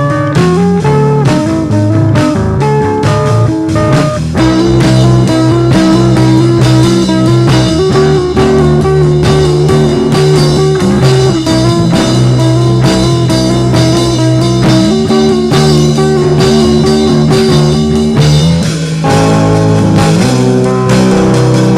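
Rock band playing an instrumental passage: electric guitar and bass holding steady repeated notes over a drum kit beat.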